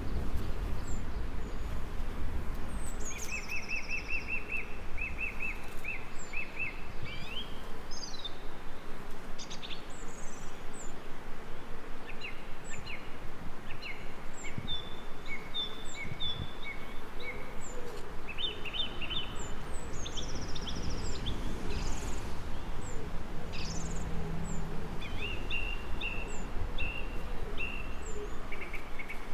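Several songbirds singing and chirping, with repeated trills and short whistled notes, over a steady low rumbling background noise.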